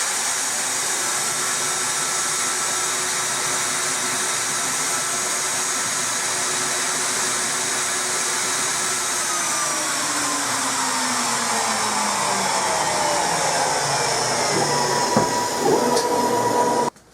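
CNC router spindle running at speed: a steady high whine over a constant hiss, its pitch sliding down over several seconds about halfway through. The sound cuts off abruptly near the end.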